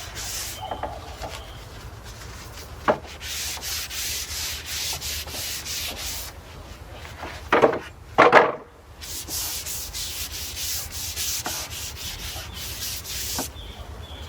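Brush strokes spreading oil across larch planks: quick, repeated back-and-forth hissing rubs in two runs. There is a short knock about three seconds in and two louder knocks about halfway through.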